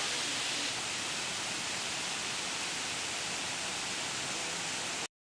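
Steady rushing hiss of a waterfall, falling water with no breaks; it cuts off abruptly near the end.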